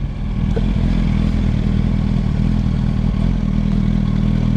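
Motorcycle engine, a Yamaha YZF-R1 inline-four, running steadily at low revs with no revving.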